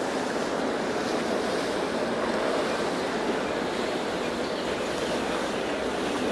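Steady rushing noise of water and wind, with a faint low hum underneath.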